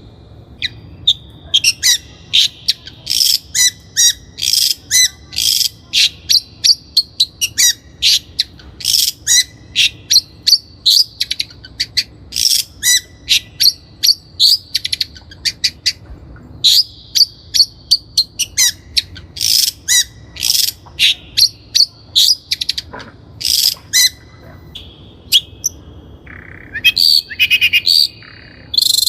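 Long-tailed shrike (Lanius schach) singing: a long, fast, varied run of short sharp chirps and whistled notes, broken by brief pauses twice.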